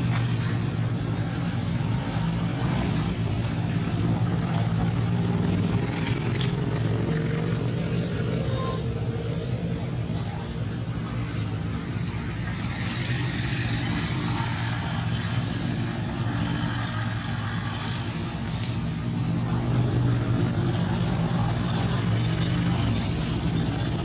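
Steady low engine hum, as of a motor idling, with a few faint clicks.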